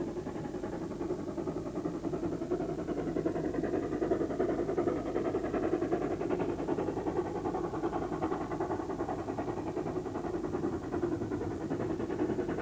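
Steam locomotive under way: a steady, dense rumble with a fast pulsing texture.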